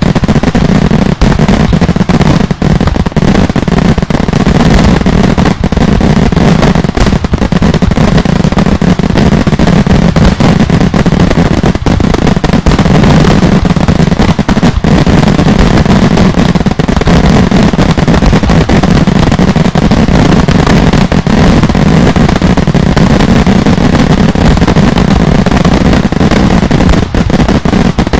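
Daylight fireworks exploding in a continuous, dense barrage of very loud bangs, the detonations following each other so fast that they merge into an unbroken rumble.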